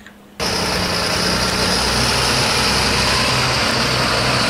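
A vehicle engine idling sound, steady and loud, that starts suddenly about half a second in.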